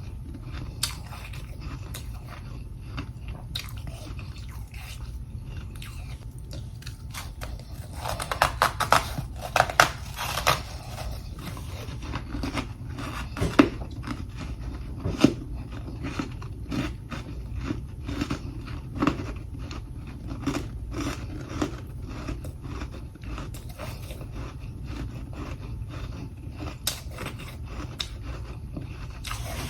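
Close-up biting and chewing of humidifier freezer frost, crisp crunches of frozen frost. Sparse at first, the crunching turns dense and loudest about eight seconds in, then goes on in steady chews over a low hum.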